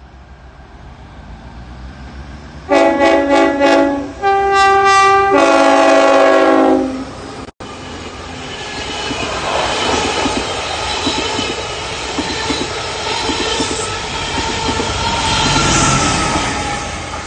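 Passenger train's horn sounding a few short pulsing blasts, then a long blast held for about three seconds. After that, the train runs past close by with wheels clicking over the rail joints, loudest near the end.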